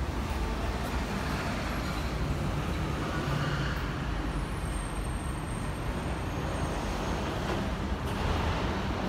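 Heavy diesel engine of a Hyundai 15-tonne three-axle dump truck running steadily, a deep low rumble with broad mechanical noise over it.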